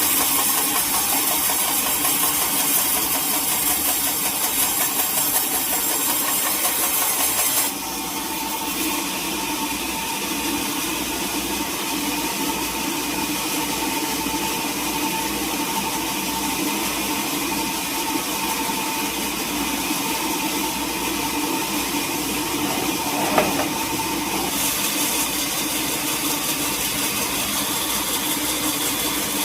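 Sawmill machinery running steadily with an engine-like drone and a hiss. The hiss drops off suddenly about a quarter of the way in and comes back near the end, with a single click shortly before it returns.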